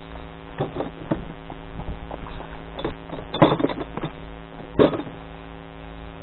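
An engine running steadily, with scattered knocks and two louder clattering thumps about three and a half and five seconds in.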